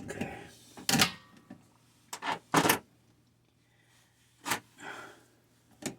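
A handful of sharp clicks and knocks, spaced irregularly, from tools and small metal parts being handled while a pressure tank switch is being wired.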